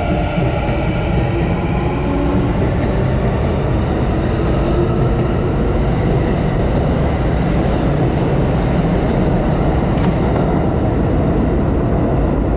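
Kintetsu electric commuter train moving alongside the station platform. For the first couple of seconds a motor whine is heard in several pitches, and it fades into a steady rumble of wheels and running gear.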